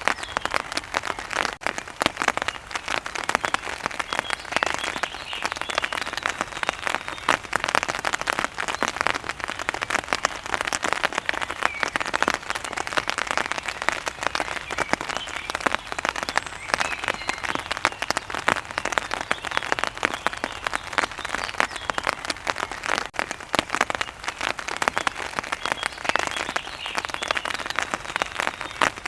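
Steady heavy rain: a dense, even patter of drops striking a hard surface.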